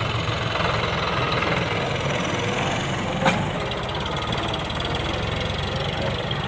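Tractor diesel engine running steadily, with one sharp click a little past the middle.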